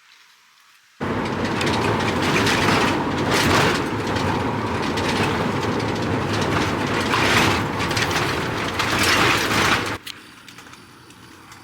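Loud, steady rushing rumble of a vehicle in motion, starting abruptly about a second in and cutting off sharply near the end.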